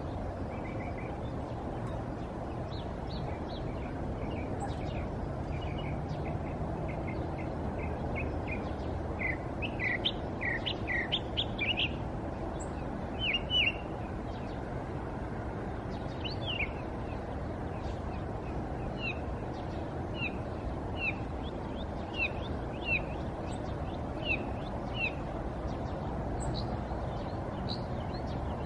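Birds chirping: many short, quick chirps come and go, busiest about a third of the way in, over a steady low background rumble.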